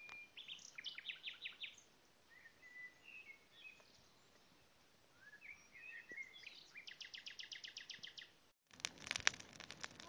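Songbirds singing: scattered chirps and runs of quickly repeated high notes, one run at about seven notes a second. Near the end, after a brief break, a wood fire crackles with sharp pops.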